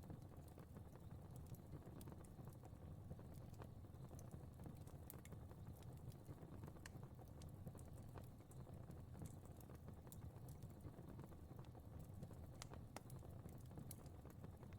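Faint fire crackling: irregular small pops and snaps over a soft, steady low rumble of burning.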